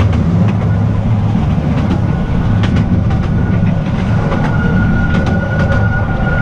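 Artouste narrow-gauge train running on its track: a steady low rumble of wheels on rail, with scattered sharp clicks. A thin high squeal comes in about two seconds in and grows stronger from about four seconds in.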